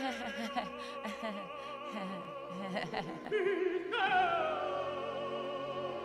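Operatic singing with wide vibrato over orchestral accompaniment. A new, louder sung note comes in about four seconds in and slides downward.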